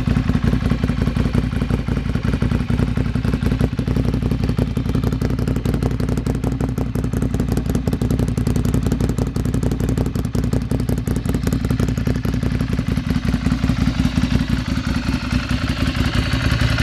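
Ducati Monster 796's air-cooled V-twin, breathing through an SC Project exhaust, idling steadily as it warms up just after starting.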